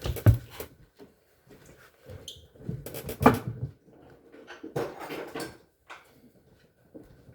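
Knocks, clunks and scraping of appliance parts being handled. There are two sharp knocks, about a third of a second in and just after three seconds, with rustling and scraping between them.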